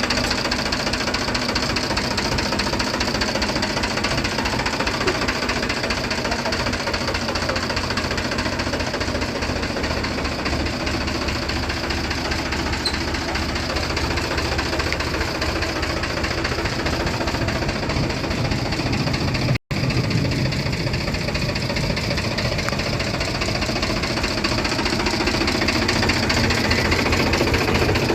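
Swaraj 735 tractor's three-cylinder diesel engine running steadily with a knocking diesel clatter. The sound cuts out for an instant about twenty seconds in, then carries on.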